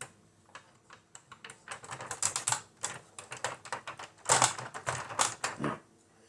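Hard plastic toy parts clicking and clattering in irregular quick taps, with short rubbing scrapes, as they are handled and fitted together; the busiest stretch comes in the second half.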